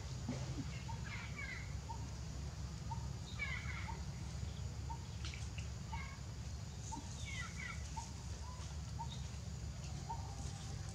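Birds calling in the forest: one repeats a short single note about twice a second throughout, while another gives brief descending chirps three times. A steady low hum runs underneath.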